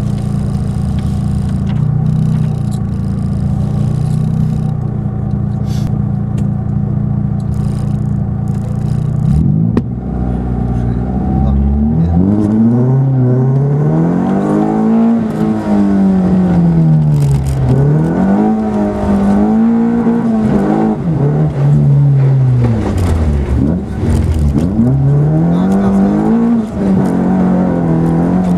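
Fiat Cinquecento rally car's engine heard from inside the cabin. It runs at steady revs for about ten seconds, then the car sets off and the revs climb and drop again and again as it is driven hard.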